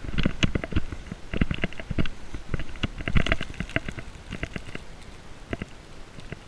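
Footsteps crunching through deep snow: irregular crunches, thick in the first half and thinning out after about three and a half seconds.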